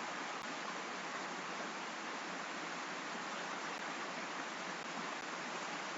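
Steady rain noise, an even hiss with no change in level, with a few faint clicks.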